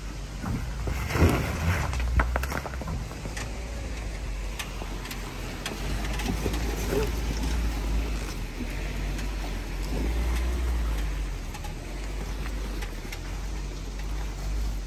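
A Suzuki JB74 Jimny's 1.5-litre four-cylinder petrol engine running at low revs under way off-road, a steady low rumble. Scattered knocks and clatters ride over it, the loudest about a second in and again about two seconds in.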